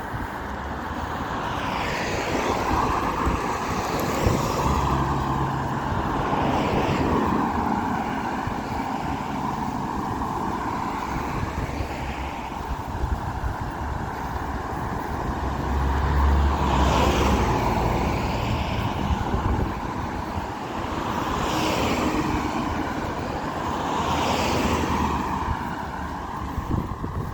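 Road traffic: several cars pass one after another, each swelling up and fading away, over a steady rumble of tyre and engine noise.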